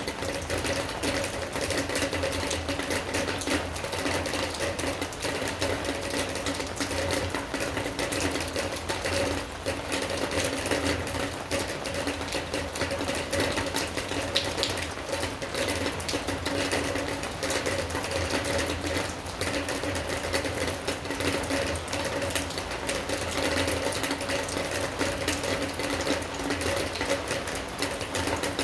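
Rain falling steadily, a dense unbroken patter of drops, with a steady low hum underneath.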